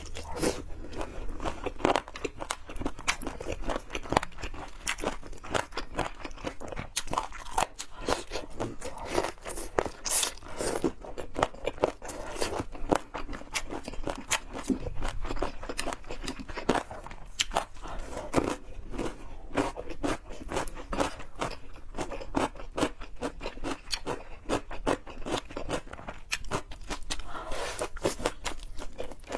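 Close-miked eating of chicken feet: continual biting and chewing with many small, irregular crunches and clicks.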